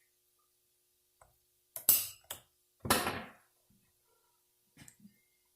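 Metal transmission gear-train parts knocking and clunking against each other as they are handled and seated, a few separate knocks with the two loudest about two and three seconds in.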